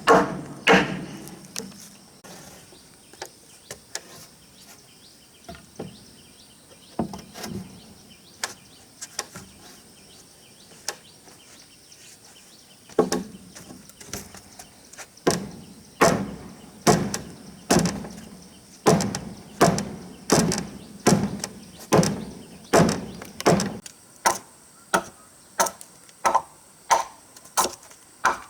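Wood being chopped with a bladed tool: a few heavy blows at the start, scattered lighter knocks, then a steady run of chopping strokes about one and a half a second from about halfway on.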